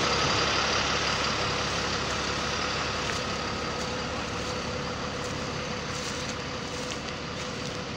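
Heavy truck engine running steadily, with a thin steady whine over its noise; the level eases slowly.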